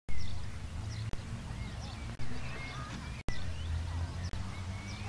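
Birds chirping and twittering over a steady low rumble, with the sound cutting out briefly about two-thirds of the way through.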